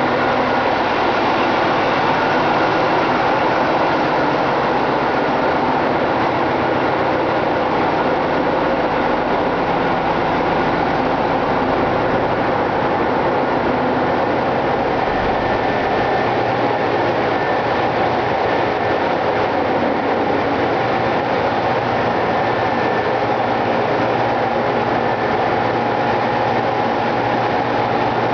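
Ship's engine-room diesel machinery running steadily: a loud, even mechanical din with a few steady humming tones through it.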